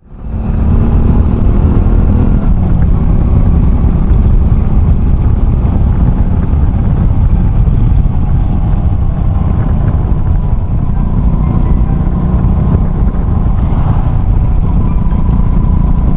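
Honda Cross Cub 110's single-cylinder engine running while riding, through an aftermarket RPM Raptor exhaust, its pitch drifting up and down with speed, over heavy wind rumble on the microphone.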